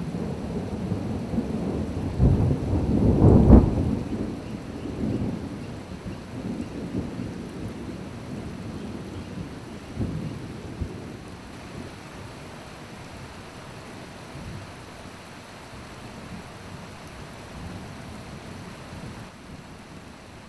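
Thunder rumbling, loudest about three seconds in and then fading away, over steady rain falling on the forest.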